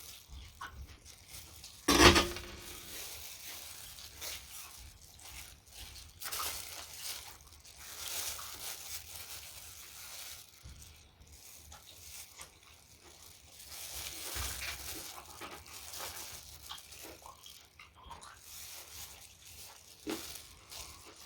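Close-up eating sounds: wet chewing and biting of spicy Thai salad and chewy octopus, with a sharp loud bite or crunch about two seconds in.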